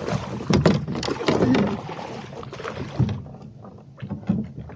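Knocks and clatter against a kayak's hull, with splashing water, as a bass is landed. It is busiest for about three seconds, then only a few scattered clicks.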